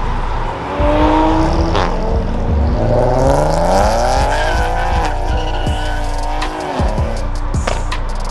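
Car engine revving: the pitch climbs steadily for about two seconds, is held high, then drops away abruptly. There is a shorter blip of revs near the start.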